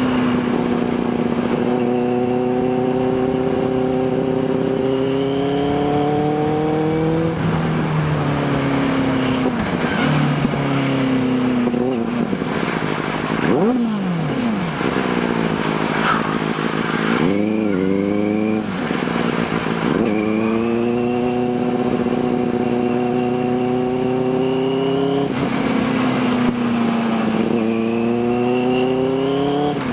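Motorcycle engine pulling through the gears, its pitch climbing slowly in each gear and dropping at each shift. Around the middle, falling and rising sweeps in pitch cross it as other engines pass by.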